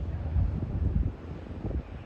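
Wind buffeting the microphone, a gusty low rumble that eases a little after about a second.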